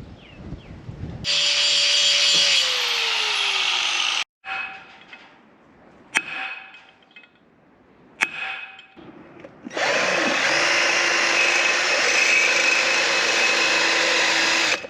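Handheld power tool running in two long bursts, the first winding down in pitch as it stops. Two sharp clicks come between the bursts.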